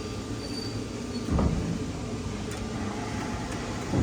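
Heavy machinery running with a steady low rumble, broken by two heavy thuds: one about a second and a half in, and one near the end.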